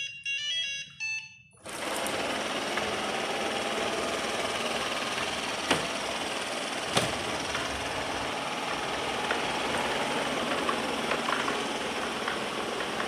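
Robot vacuum starting up: a short run of electronic beep notes, then its suction motor and brushes come on about a second and a half in and run steadily, with two sharp knocks a few seconds later.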